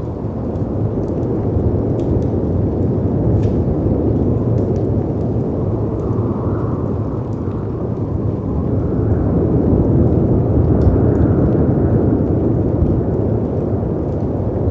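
Low, steady rush of storm wind and sea surf that rises and falls in slow surges, loudest about ten seconds in, with sparse faint crackles from a wood fire.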